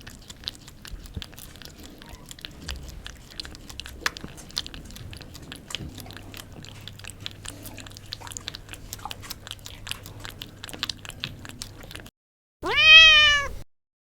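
A cat chewing and crunching food, many small irregular crunches, followed near the end by one loud meow that rises and falls in pitch.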